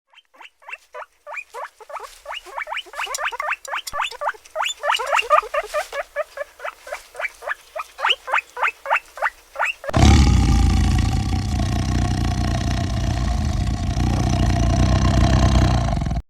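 An animal giving a rapid run of short squeaky calls, several a second, each falling steeply in pitch. About ten seconds in this breaks off abruptly into a loud, rough, steady roar-like sound.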